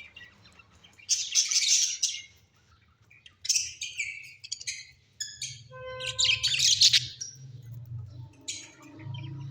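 Pet birds chirping and chattering in several bursts of high calls, with one short, pitched whistle-like call about six seconds in.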